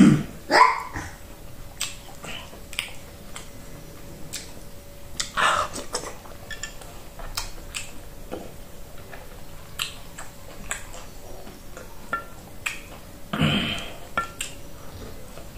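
Wet eating sounds of oat fufu and peanut butter soup eaten by hand: close chewing and lip smacking as a string of soft sticky clicks, with a few louder smacks or slurps right at the start, about a third of the way in and near the end.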